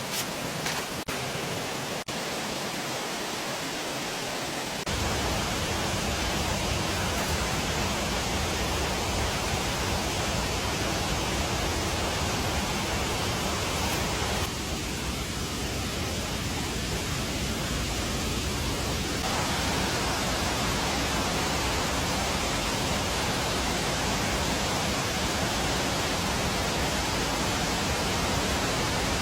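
Steady rushing of water, rain or a flowing stream. A deeper low rumble joins it about five seconds in and then holds steady.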